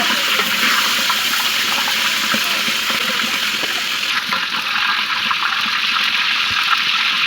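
Water running steadily from a tap and splashing, with small irregular splashes and knocks throughout.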